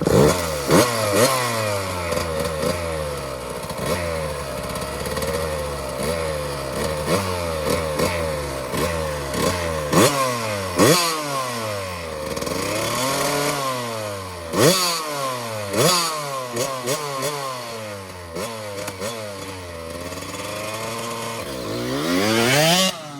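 A 65cc two-stroke dirt bike launches hard and rides on. Its revs climb in repeated rising whines that break off and drop at each gear shift, with some slower dips and pickups later and a sharp burst of revs near the end.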